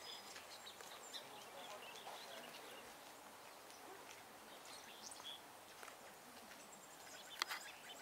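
Faint outdoor ambience with scattered distant bird chirps, and a single sharp click near the end.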